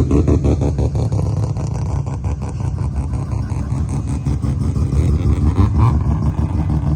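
Car engine running through a loud exhaust, a low rapid pulsing note that eases slightly after the first second.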